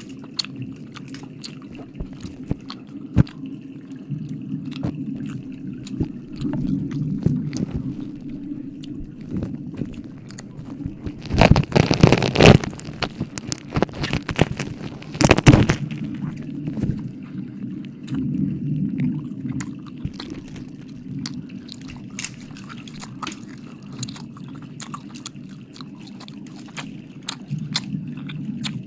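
Close-miked wet mouth sounds: a stream of sharp licking and smacking clicks, with two loud rushing bursts about 12 and 15 seconds in.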